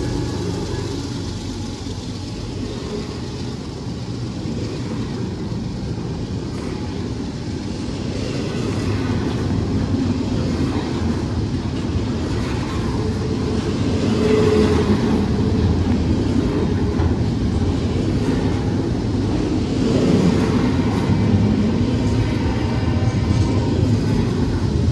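CSX intermodal freight train rolling past, a steady rumble of wheels on rail that gets louder about halfway through.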